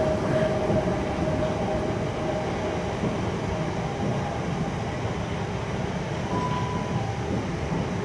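South Western Railway Class 455 electric multiple unit moving slowly along the platform: a steady rumble of wheels on rail with a faint steady whine that fades, and a brief higher tone about six seconds in.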